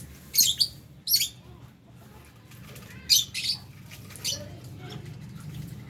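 Lovebirds giving several short, shrill calls, loudest within the first second and around three seconds in, over a steady low hum.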